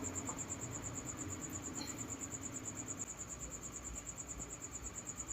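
Crickets chirping: a steady, rapid high-pitched pulsing trill over faint background noise.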